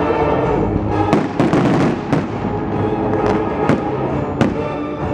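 Fireworks going off over loud music: a cluster of bangs and crackling about a second in, then single sharp reports every half second or so, the last one near the end.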